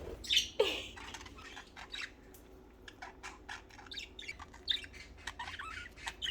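Pet budgerigars chirping and squawking, a rapid scatter of short calls and clicks.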